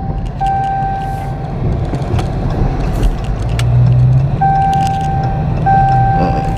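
Dodge Charger Hellcat's seatbelt warning chime: a steady high tone sounding in spells of about a second with short breaks, signalling an unbuckled seatbelt. Under it the car's supercharged V8 runs at idle with a low rumble, and a few light clicks.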